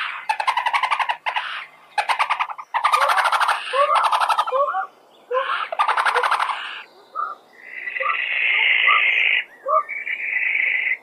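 Owls calling: a series of harsh, rapidly pulsed screeching calls, then two longer hissing calls in the second half.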